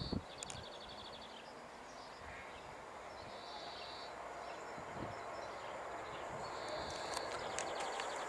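A freight train hauled by an SŽ class 363 'Brigitte' electric locomotive approaching, its rumble slowly growing louder, with a thin high whine coming in near the end. Over it a songbird sings a buzzy high note followed by a fast trill, three times.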